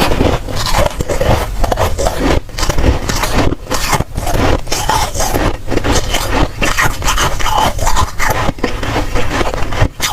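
Close-up crunching of dry, powdery freezer frost being bitten and chewed: a dense, loud run of crackly crunches with a few brief pauses.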